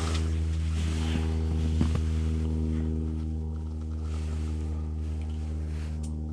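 A steady low mechanical hum at one unchanging pitch, like a motor or engine running, with a few light knocks in the first two seconds.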